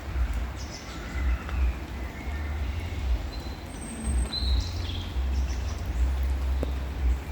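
Songbirds chirping and calling in short, scattered phrases over a strong, uneven low rumble.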